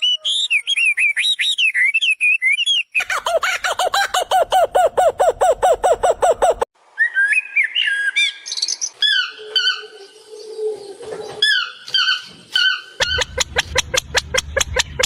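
Birds singing in a series of abruptly cut segments: varied warbling phrases, a fast run of repeated notes at about seven a second, whistled phrases, then another fast run of repeated notes near the end.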